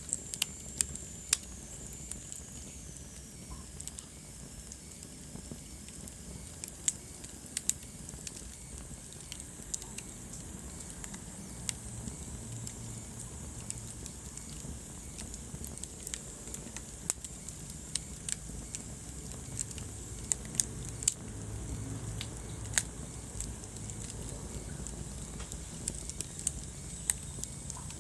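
Wood fire crackling, with irregular sharp pops over a soft low rumble. A thin high whistle falls in pitch during the first few seconds.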